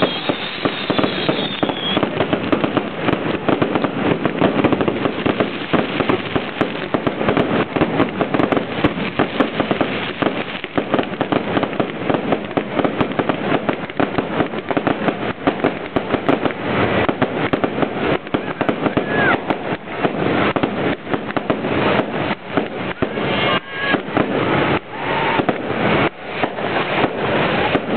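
Fireworks display in a rapid barrage of overlapping bangs and crackles, thinning into separate bangs near the end. Recorded on a camera set to low quality, so it sounds dull and muffled.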